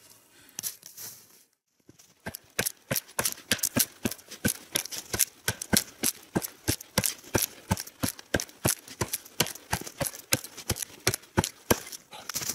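Quick, uneven strokes of a tool working a freshly felled dry pine trunk, about four sharp knocks a second, starting about two seconds in.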